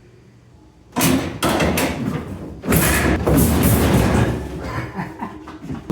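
A refrigerator being shoved and wrestled, with heavy thuds, knocks and scraping starting about a second in. The loudest stretch is in the middle.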